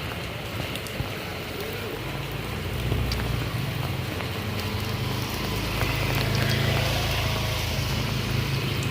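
Rain falling steadily, with a low engine hum coming in about three seconds in and growing louder.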